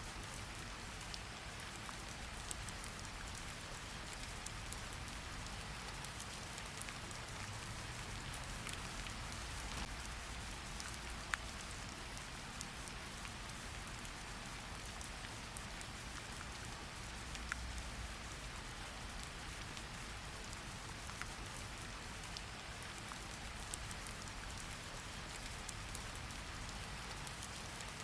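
Steady rain falling, an even hiss with scattered drips and patters of drops hitting a surface, the sharpest a little past eleven seconds and near seventeen and a half, over a faint low rumble.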